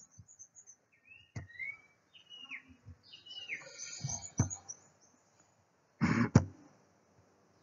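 Small birds chirping in the background, a series of short, curving chirps. There are a few faint clicks, and a brief louder burst of noise about six seconds in.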